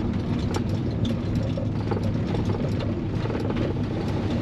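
Chevy C-10 pickup's engine running steadily while the truck is driven, with frequent light rattles and knocks over the drone.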